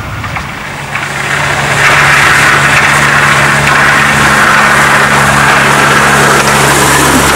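Diesel locomotive of a miniature railway running by, its engine a steady low hum, with a loud hiss of running noise rising about two seconds in.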